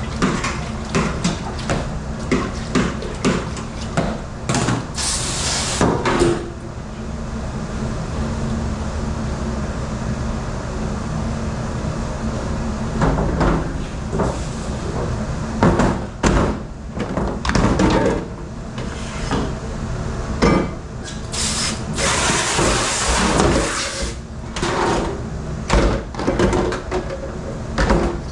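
Commercial kitchen dish room: dishes, racks and pans knocking and clattering over a steady machine hum, with two longer hissing bursts, one early and one past the middle.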